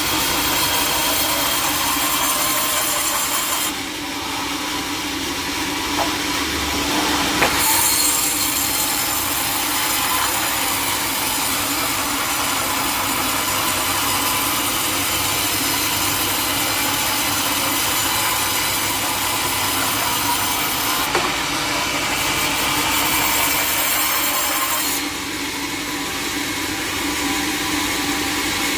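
Sawmill saw cutting teak wood: a steady hum under the dense hiss of the blade in the wood. The hiss thins out about four seconds in and again near the end, with a sharp tick or two in between.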